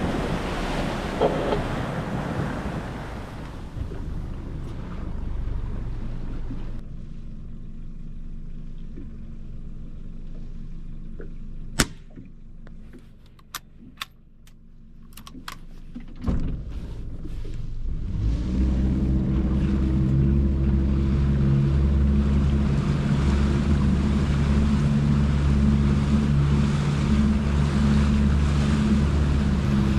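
Wind and waves on an open boat, then a single sharp crack about twelve seconds in, followed by a few lighter clicks. From about eighteen seconds a boat's motor comes up and runs steadily to the end.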